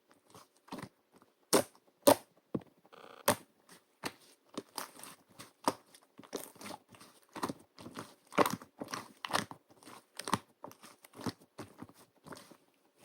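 Slime being worked by hand, squeezed and pressed so that it gives off irregular sticky clicks, pops and crackles, two or three a second, some much louder than others.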